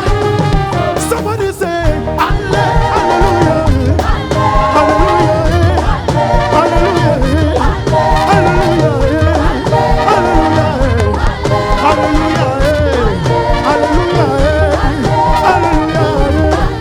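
Live worship band music with a steady drum beat and voices singing melodic lines.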